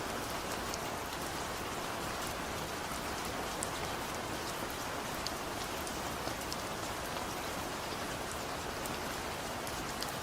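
Steady gentle rain falling, an even hiss with scattered small drop taps, no thunder.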